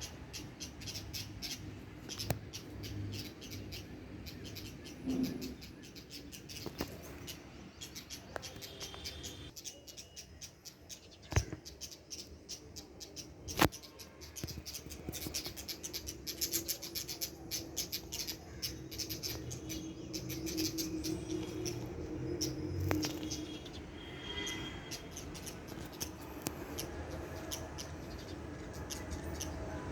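Small birds chirping, a dense run of quick, high-pitched chirps, with two sharp clicks around the middle.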